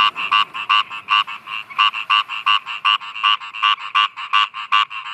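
Frog croaking in a fast, even series of short calls, about four or five a second.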